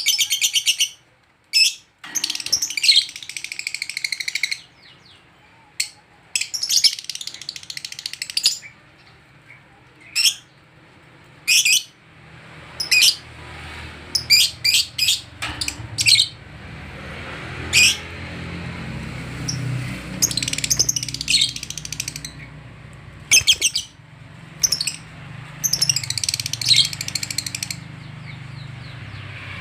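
Lovebirds chattering in short, shrill bursts of high chirps, some running into longer strings of rapid notes. From about twelve seconds in, a low steady hum sits underneath.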